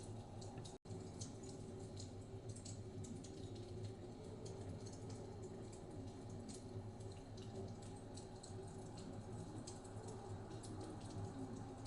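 Wood fire crackling in a fireplace, with frequent small irregular pops and snaps over a low, steady rumble. The sound cuts out for an instant just under a second in.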